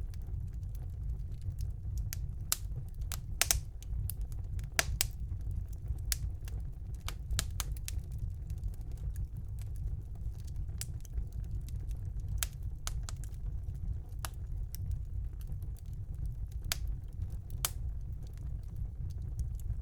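Fire burning in a fireplace, crackling: irregular sharp pops and snaps over a steady low rumble of the flames, with the loudest snaps about three and a half and five seconds in.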